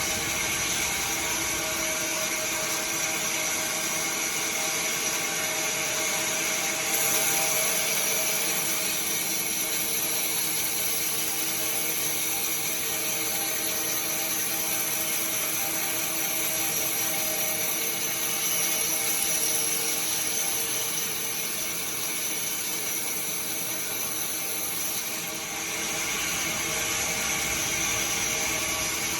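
Sawmill saw machinery running steadily, a continuous mechanical whine with hiss. The pitch mix shifts about seven seconds in and again near the end.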